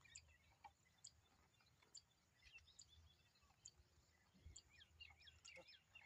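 Faint bird chirps and calls over a quiet rural background, with one high short note repeating about once a second, and a soft low thump a little past halfway.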